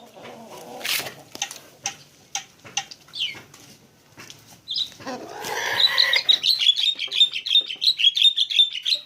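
Pet songbird chirping: scattered clicks and a single chirp at first, then from about five seconds in a fast run of short, high chirps, several a second.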